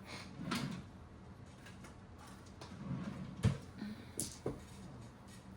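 Scattered knocks and clicks of small objects being handled on a tabletop, the sharpest a single click about three and a half seconds in.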